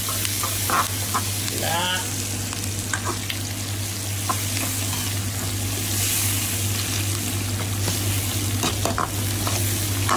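Onion rings, lemongrass and chopped chillies sizzling in hot oil in a metal wok, stirred with a metal ladle that scrapes and clicks against the pan. A steady low hum runs underneath.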